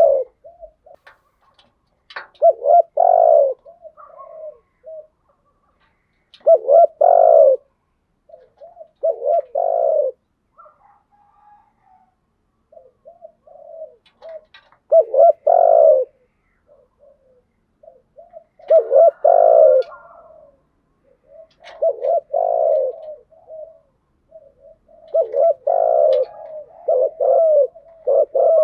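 Spotted doves cooing: short, low coo phrases repeated every few seconds, sometimes run together in quick series. The recording is a decoy call for training caged spotted doves.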